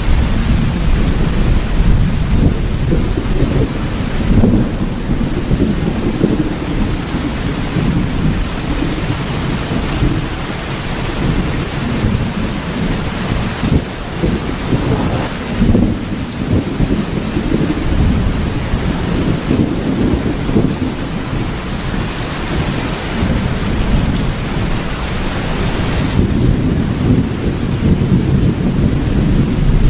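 Steady rain with low rolling thunder that swells and fades underneath it: a thunderstorm.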